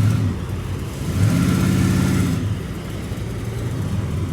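Car engine running, its note swelling about a second in and fading again after two seconds.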